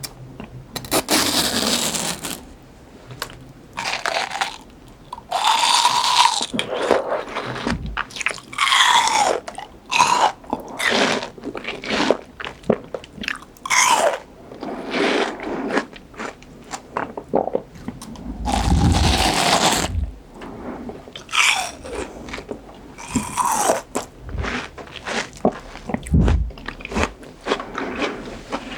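Close-miked biting and chewing of crunchy raw fruit: a long, irregular run of juicy crunches.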